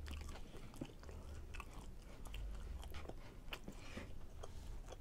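A person chewing a mouthful of chicken fajita close to the microphone: scattered soft, wet mouth clicks and smacks.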